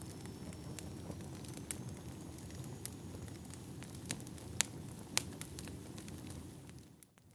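Wood fire burning: a steady low rush with scattered sharp crackles and pops. It dips briefly almost to silence near the end.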